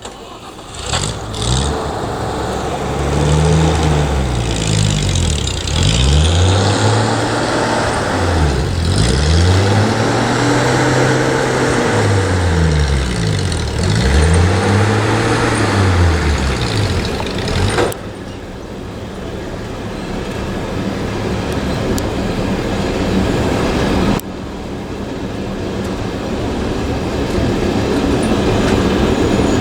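Passenger train in motion heard from a carriage window: a steady rumble of wheels and rushing air. In the first half a deep hum repeatedly swells up and down in pitch. The sound drops in level abruptly twice in the second half.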